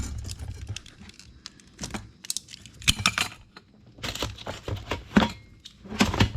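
Irregular clicks, taps and rustles of hands working the welder's ground cable and shrink tubing on a tabletop.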